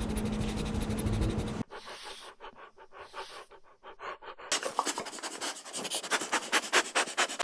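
A small puppy panting in quick, even breaths, faint at first and louder from about halfway through. It follows a steady low hum that cuts off about a second and a half in.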